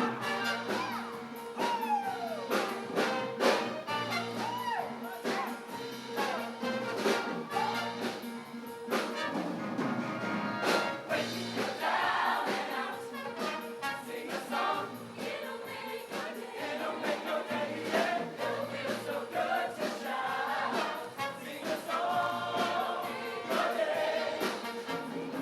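High-school show choir singing a song in parts over instrumental accompaniment with a bass line and a steady drum beat.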